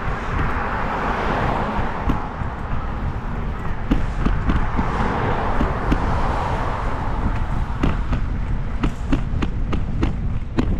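Wind rushing over the microphone while riding a bicycle, with road traffic swelling past twice. In the last few seconds a run of sharp, irregular clicks, several a second.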